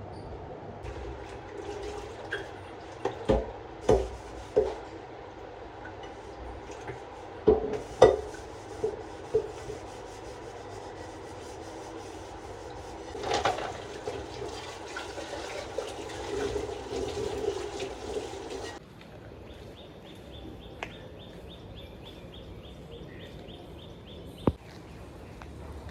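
Water running steadily, with several knocks and clinks of pots and dishes. It stops abruptly about two-thirds of the way through, leaving a faint high steady tone.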